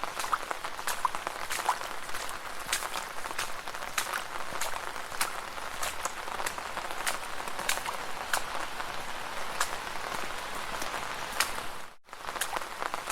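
Footsteps splashing through shallow puddles: sharp wet splashes and drips over a steady watery hiss. The sound cuts out for a moment near the end.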